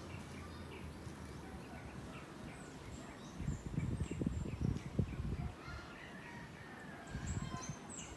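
Birds chirping with many short, high, falling calls, over a steady outdoor background. Low rumbling bursts come in about three and a half seconds in, lasting two seconds, and again briefly near the end; these are the loudest sounds.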